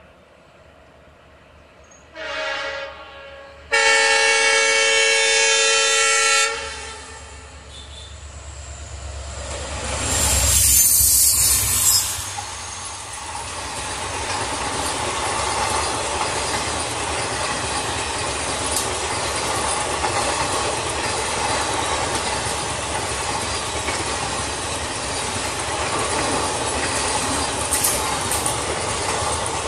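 WDP-4D diesel locomotive sounding its horn, several notes at once: a short blast about two seconds in, then a longer one. The train then runs past, loudest around ten seconds in, and settles into the steady clickety-clack of the coaches rolling over the rails.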